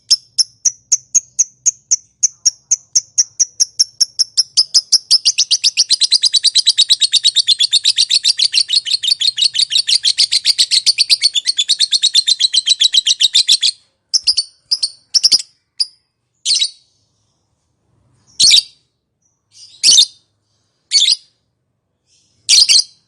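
Lovebird in a long chattering 'ngekek' call: sharp, high chirps at about four a second quicken about five seconds in into a dense, rapid chatter of some eight seconds, then break off abruptly. A few single sharp calls follow, spaced a second or two apart.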